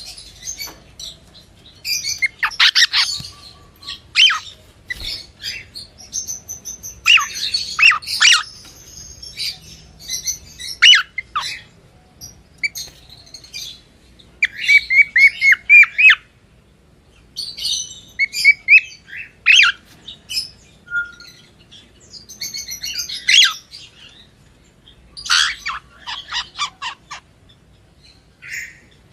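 Cockatiel chirping in clusters of quick, high calls, many sweeping rapidly downward, with short pauses between clusters.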